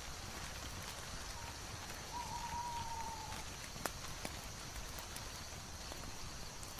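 A steady, even hiss with a few sharp crackles of a wood fire, two of them about four seconds in. A faint whistling tone, slightly falling, is held for about a second starting about two seconds in.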